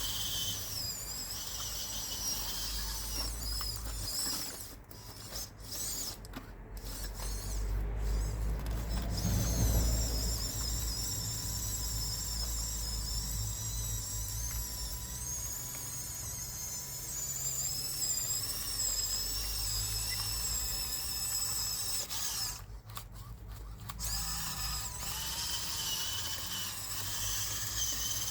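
Electric drive motors of a radio-controlled Huina 1554 bulldozer whining over a low rumble. The whine cuts out briefly a few times, and again near the end.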